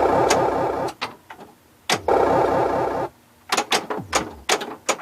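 1979 Williams Gorgar pinball machine in play: two bursts of warbling electronic sound effects from its sound board, the first ending about a second in and the second lasting about a second from two seconds in. After that comes a quick run of sharp clacks from the playfield's solenoid-driven mechanisms and the ball.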